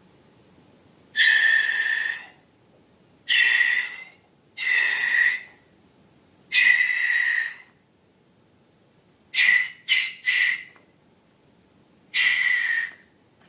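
Air let out of a balloon's stretched neck in eight short bursts, each a high steady whistle with hiss, the last few coming quickly one after another.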